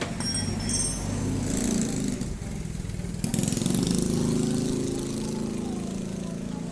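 A small engine running, a fast low pulsing that swells twice, about a second and a half in and again past three seconds.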